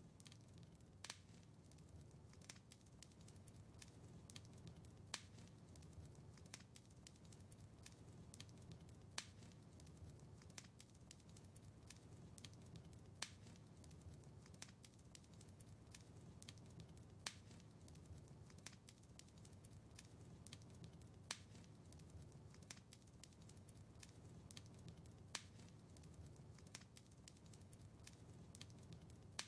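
Wood fire in a fireplace crackling: many small snaps over a low steady rumble, with a louder pop about every four seconds.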